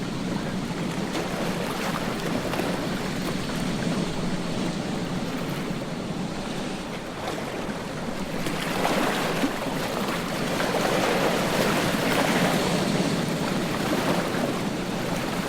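Ocean surf breaking on a beach: a steady wash of waves that swells louder about nine seconds in and again for a few seconds after ten seconds.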